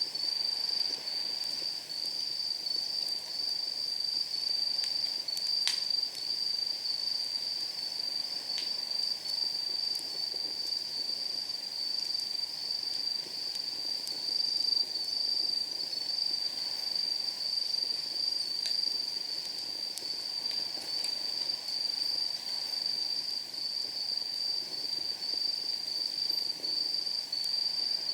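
Night insects trilling steadily in a high, pulsing chorus, with firewood in a campfire popping and crackling now and then, the sharpest pop about six seconds in.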